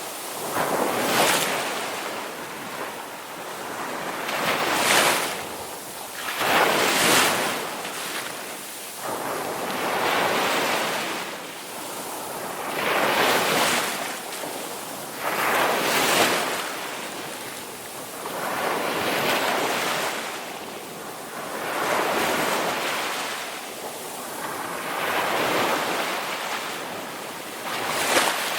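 Ocean waves breaking and washing on the shore, a new surge swelling and fading every two to four seconds.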